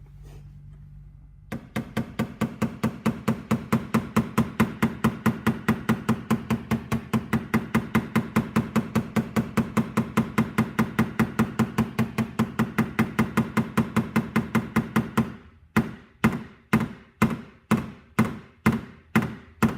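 PDR blending hammer tapping on the steel door panel of a 2014 Mitsubishi Outlander, knocking down the high crown around a dent. After a second and a half it starts light rapid taps at about four a second, each with a short ringing note from the panel. Near the end it slows to harder taps about two a second.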